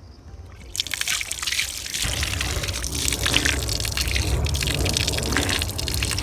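Water from a drinking-water tap running and splashing, starting about a second in.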